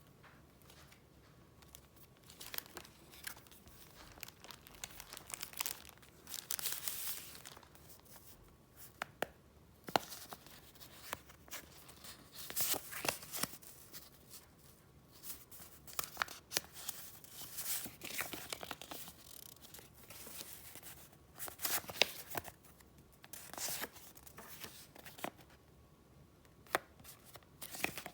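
Paper being handled by hand: irregular rustling and crinkling swells with many sharp little clicks and taps between them.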